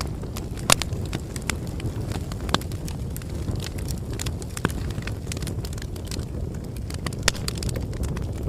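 Bonfire crackling: irregular snaps and pops, a few sharper than the rest, over a steady low rumble of the burning wood.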